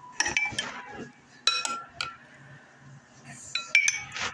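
A utensil clinking and scraping against a dish as food is scooped out: a run of sharp, briefly ringing clinks.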